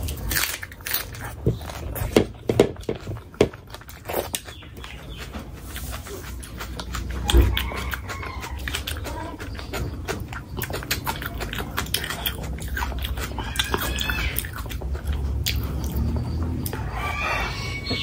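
Close-miked chewing and wet lip smacks of a person eating mutton curry by hand, with a dense run of sharp smacks and clicks in the first few seconds. It then goes on as softer chewing with a few short pitched mouth sounds.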